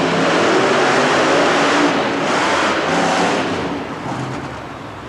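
Monster truck engine running loud and revving, with a broad roar of noise around it; it dies down about three and a half seconds in.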